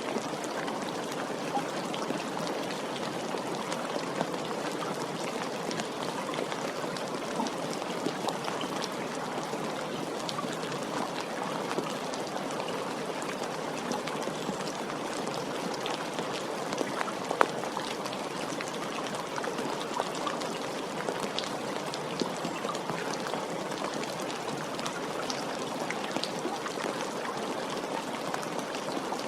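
Steady rain falling: an even hiss with many small drops tapping through it, and one sharper drop about two-thirds of the way through.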